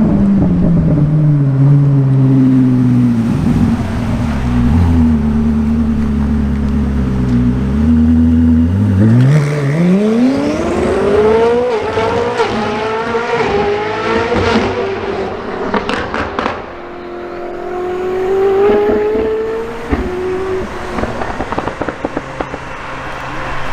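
Koenigsegg Jesko Attack's twin-turbo V8 falling in pitch, then holding steady at low revs, then accelerating hard with revs climbing through several quick upshifts, with sharp exhaust crackles among them. The note then holds and rises slightly before falling away.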